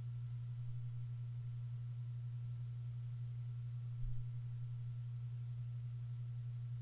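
A steady low hum: one unchanging low tone with a faint higher whine above it, and a soft low bump about four seconds in.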